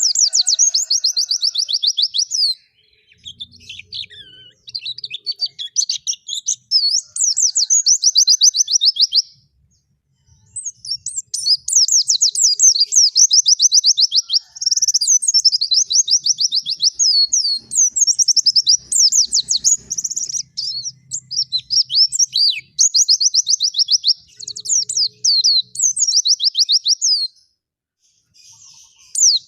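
Small songbird singing long runs of rapid, high trilled notes, in phrases a few seconds long separated by short pauses.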